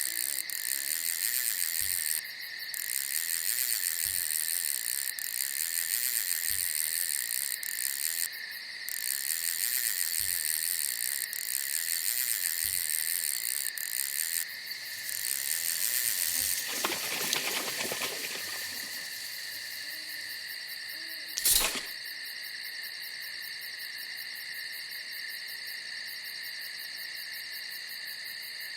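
Night insects chirring in a dense, continuous high chorus. A soft rustle comes just past the middle, then a single sharp click, after which the chorus is a little quieter.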